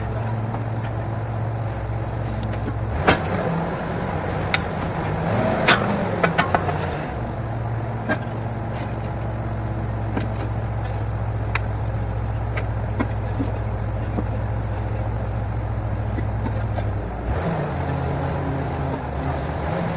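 Borewell drilling rig's engine running steadily, with a few sharp knocks about three to eight seconds in, and the engine note shifting near the end.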